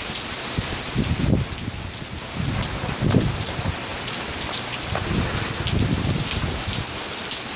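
Steady rain falling hard. Gusts of wind buffet the microphone with low rumbles about a second in, around three seconds in, and again near six seconds.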